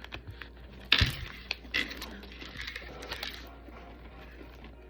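Food packaging being handled: a sharp knock about a second in, then scattered clicks and crinkling rustles.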